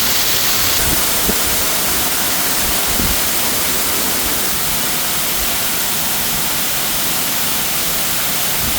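Waterfall pouring down close to the microphone: a loud, steady, unbroken rush of falling water.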